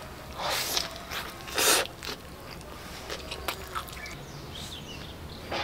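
Bites and chewing of a soft toast sandwich filled with cabbage, with two short noisy bursts about half a second and a second and a half in, then quieter mouth sounds. Faint bird chirps in the background near the end.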